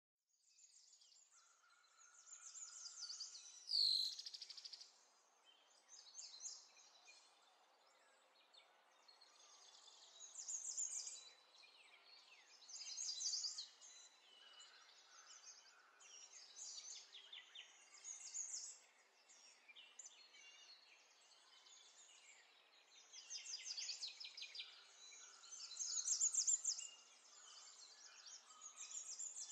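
Birds chirping and calling, faint, in short runs of high chirps every couple of seconds, with one louder call about four seconds in.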